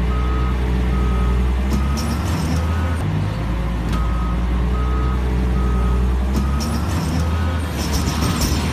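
Heavy machine's diesel engine running steadily under load while its backup alarm beeps, about two beeps a second, breaking off for about a second partway through.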